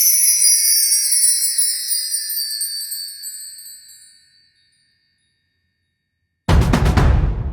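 Intro sound effects: a shimmering chime glissando that slides down in pitch and fades out over about four seconds. After a short silence a sudden loud hit with a deep boom comes near the end.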